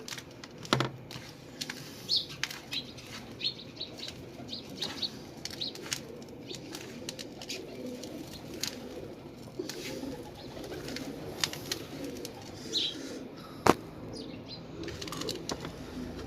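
Hands mixing and kneading wet roti dough in a bowl as water is worked in, a string of soft slaps and clicks with one sharp knock near the end. Birds chirp faintly in the background.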